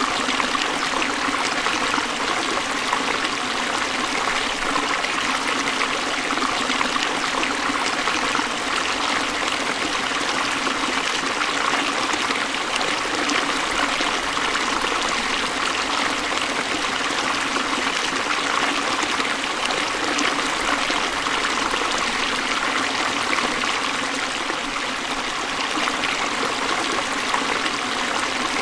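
Forest stream flowing steadily over rocks, a continuous rushing and trickling of water.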